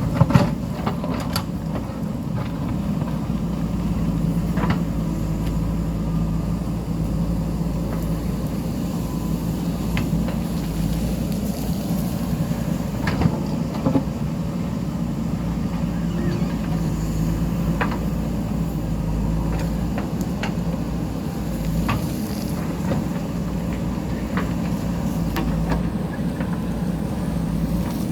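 JCB backhoe loader's diesel engine running steadily, with scattered knocks and clatter from the bucket digging into the hillside; the sharpest clatter comes right at the start and another about thirteen seconds in.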